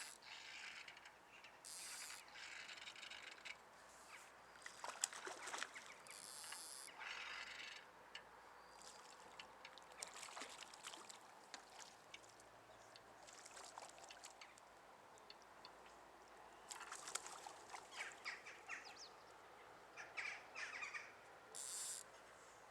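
Faint outdoor ambience with short high-pitched bird calls coming and going.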